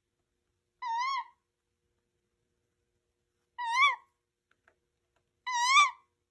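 Pet owl calling three times, each a short, wavering, high-pitched call about half a second long. The second and third calls are louder than the first.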